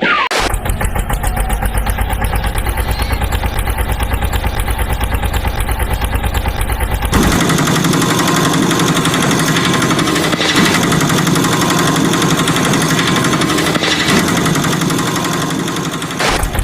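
Engine sound with a fast, even rattle of pulses, held loud; about seven seconds in its deep low rumble drops away and it turns harsher and higher.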